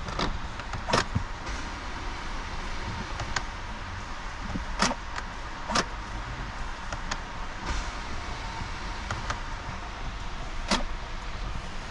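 A few sharp clicks and knocks, about four loud ones spread irregularly, over a steady low rumble.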